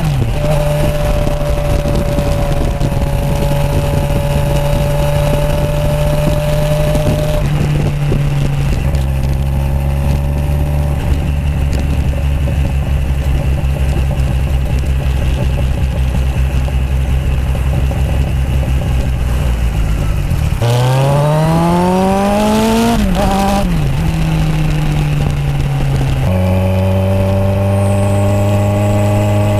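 Kawasaki Z1000 inline-four motorcycle engine through a Toce aftermarket exhaust, ridden on the road: it runs at steady revs for long stretches, then about 21 seconds in the revs climb under acceleration and drop sharply twice as it shifts up, settling to a steady lower note near the end.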